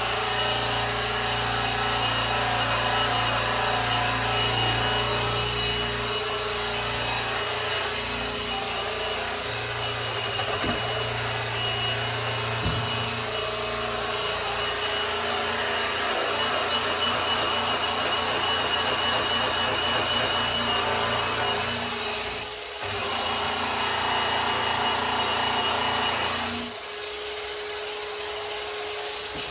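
Electric polisher running steadily against a grand piano's case, a motor hum with rubbing as the pad buffs the finish; it briefly eases off about two-thirds of the way through and runs quieter near the end.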